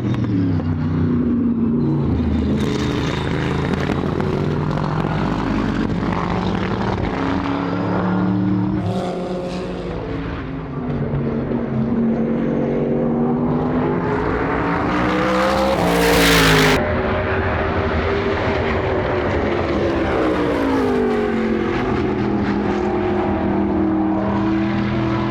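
Modified time-attack race car engines on track, revving up and falling back through the gears as cars pass. The loudest pass comes about sixteen seconds in.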